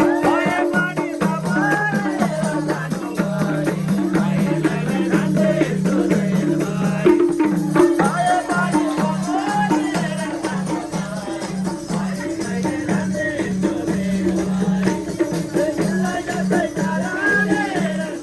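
Nepali dohori folk music with a steady repeating beat, a rattling shaker and a melody that bends in pitch.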